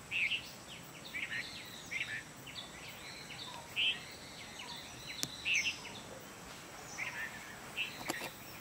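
Wild birds calling in short, repeated chirps over a steady outdoor hiss, with two brief sharp clicks about five and eight seconds in.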